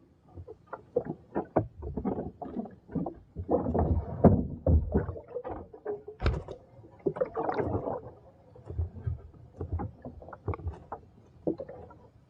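Irregular splashing and knocking of water against a small fishing boat, in quick uneven strokes with a denser stretch about four and about seven seconds in.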